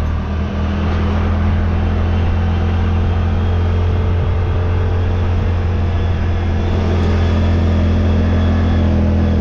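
Side-by-side UTV engine running at a steady pace under way, a constant low drone with drivetrain noise.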